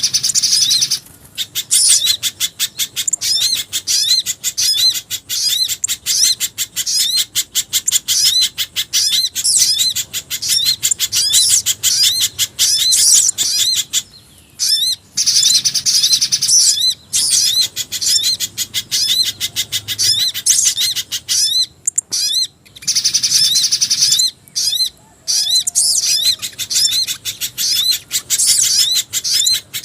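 Bird-lure recording mixing spiderhunter (pijantung gunung) and black-winged flycatcher-shrike (jingjing batu) calls: long runs of rapid, high chattering notes, broken by a few short gaps.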